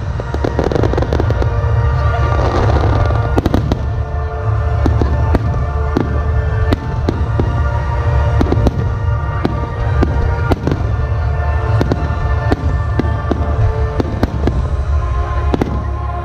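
Aerial firework shells bursting in an irregular, rapid series of sharp booms and bangs, with music playing underneath.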